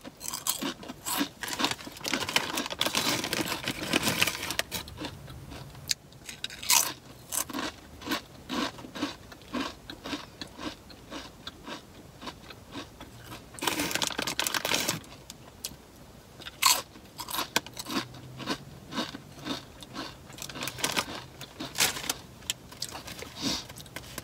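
Close-up crunchy chewing of Sun Chips multigrain chips: bites and crunches come in irregular spurts, a few of them louder.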